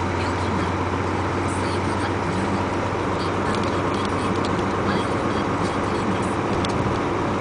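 Dump truck's diesel engine running with a steady low drone and road noise, heard from a dashcam inside the cab.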